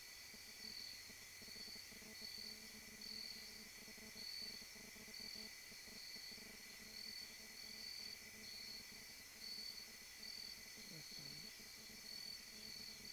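Faint night insects, crickets, chirping in a regular pulsing rhythm over a steady high trill.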